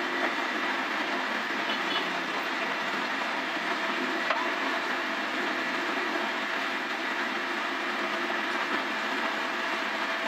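A machine running steadily with an even mechanical rattle, holding the same level throughout.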